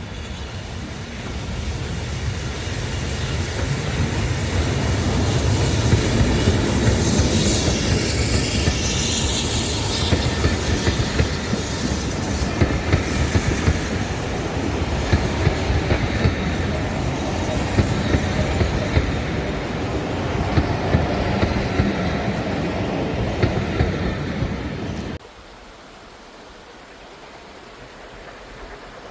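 Heritage railway train passing close, its wheels clicking over the rail joints, with a high falling wheel squeal for a few seconds. The sound builds over the first several seconds and cuts off suddenly near the end, leaving a quieter steady hiss.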